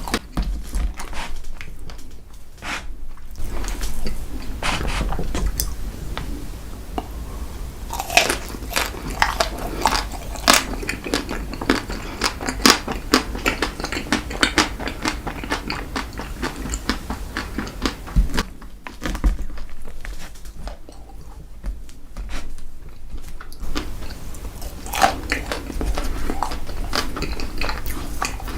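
A person eating strawberry chocolate ice cream dessert cake close to the microphone: biting and chewing, with a long run of crisp, crunchy clicks in the middle.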